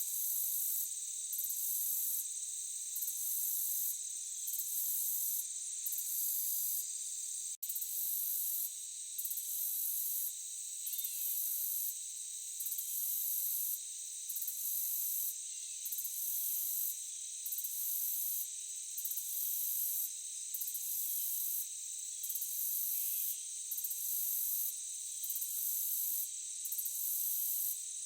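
Insects chirping: a steady high trill with a louder chirp that pulses on and off about once a second. The sound cuts out for an instant about seven and a half seconds in.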